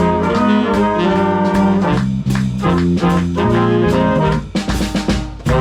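Swing band playing an up-tempo chart, brass section over a walking bass and drum kit, the closing bars of the tune taken from a piano count-in.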